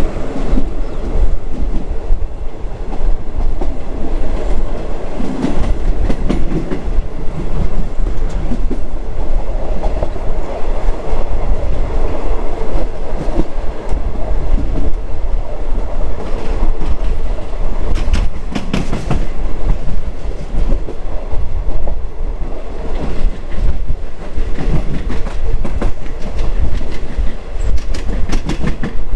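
Passenger train running along the track, heard from inside a third-class coach of an ordinary locomotive-hauled train: a steady rumble with wheels clacking over rail joints. Clusters of sharp clacks come about two-thirds of the way through and again near the end.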